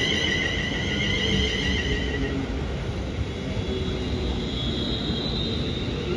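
Train moving past with a steady low rumble and high-pitched warbling tones, as from wheels squealing on the rails; the tones fade about two seconds in and a higher one comes in for the second half.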